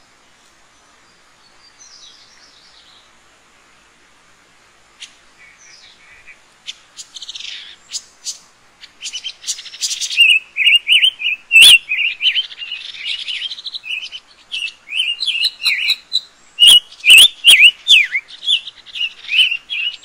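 Birds calling in quick, chirping bursts, faint at first and then loud and busy from about halfway. A few sharp clicks stand out among the calls.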